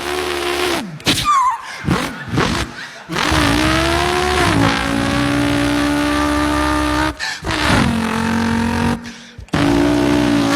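A man imitating a car engine with his voice: revving notes that climb, hold steady and drop as if shifting gears, broken by short pauses.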